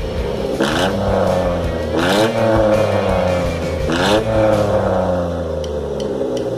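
Car engine with an aftermarket racing exhaust revved in three throttle blips, each rising quickly and falling back to idle.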